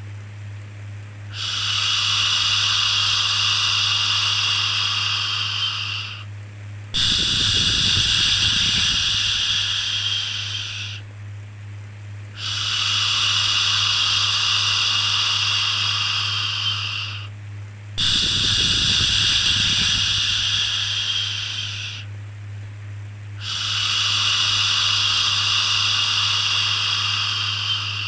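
Long shushing 'shhh' sounds for soothing a baby, five of them, each lasting about four to five seconds with a short pause between, over a steady low hum.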